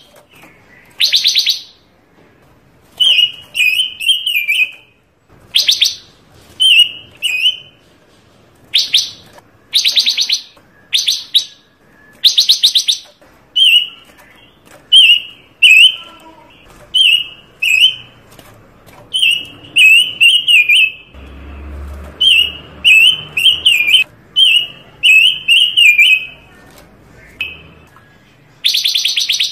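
Panca warna songbird singing loud, varied phrases: warbled whistles alternating with short harsh rattling notes, about one phrase a second.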